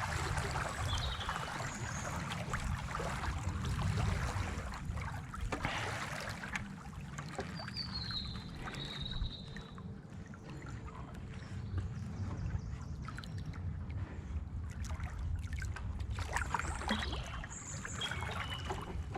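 Water trickling and lapping around a racing kayak, with scattered small knocks and a steady low rumble.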